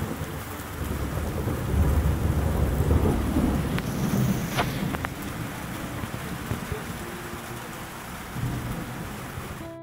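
Heavy thunderstorm rain pouring steadily, with a long roll of thunder that builds about a second in, rumbles loudest for a few seconds, then fades. A few sharp clicks sound near the middle.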